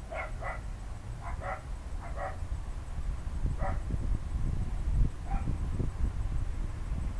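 A dog barking several times, mostly in quick pairs, over a steady low rumble of thunder that swells in the middle.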